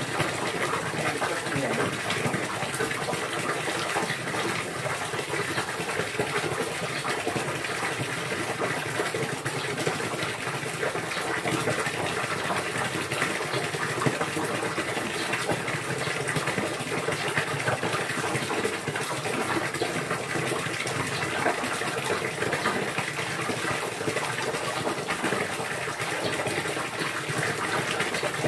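Water gushing steadily and evenly throughout.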